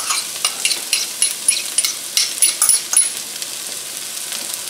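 Chopped onions sizzling in canola oil in a skillet. For the first three seconds quick clicks and scrapes of a metal spoon on a small bowl come over it, as chopped ginger is scraped into the pan; then the sizzle goes on steadily.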